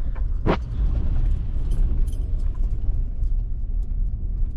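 Strong wind buffeting the camera microphone, a heavy, steady low rumble, with one sharp click about half a second in.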